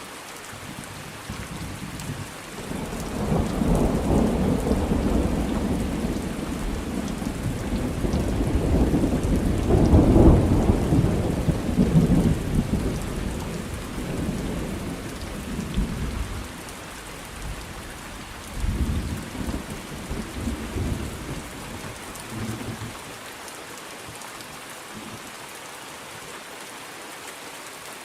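Thunderstorm with steady rain falling. A long roll of thunder rumbles in about three seconds in, peaks near ten seconds and fades away, followed by a few shorter, fainter rumbles before the rain continues alone.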